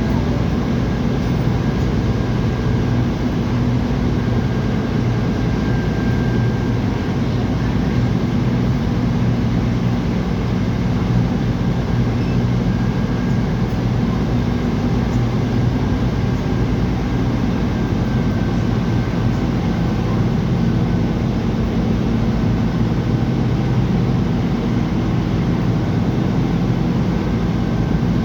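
Car ferry's engine running with a steady low drone, unchanging throughout.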